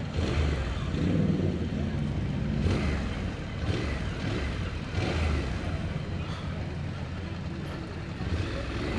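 Motorcycle running on the road: a steady low engine rumble with road and wind noise, swelling and easing every second or so.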